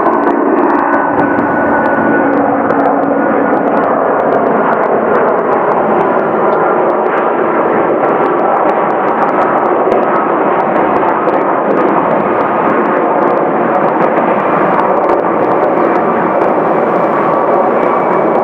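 Airbus A330 airliner's jet engines, a loud steady roar with faint whining tones that die away in the first few seconds.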